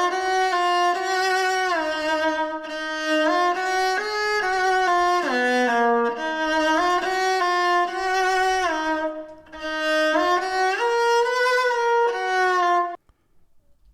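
A drill sample-pack melody loop with a violin-like string lead, one line that slides in pitch between held notes, in phrases. It cuts off shortly before the end.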